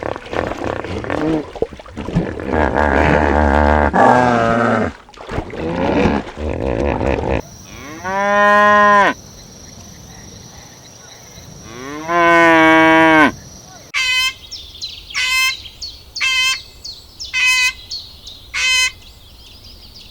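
Cow mooing: two long, drawn-out moos about four seconds apart, mid-way, after a jumble of other animal calls. In the last third comes a run of short, high calls, about one a second.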